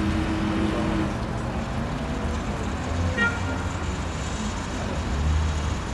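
Motor vehicle engine running with road noise. A steady tone fades out about a second in, and a brief high-pitched sound, like a short toot, comes about three seconds in.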